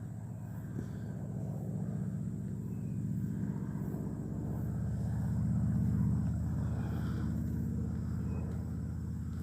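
Low, steady engine drone that swells slowly to its loudest about six seconds in, then eases a little.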